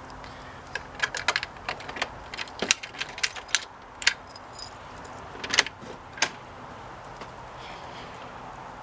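Keys jangling and a skeleton key clicking in a mortise lock, a string of sharp metallic clicks over about the first six seconds.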